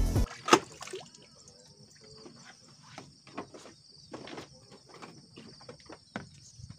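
Insects chirring steadily in a high drone, with scattered small clicks and knocks throughout, the loudest about half a second in.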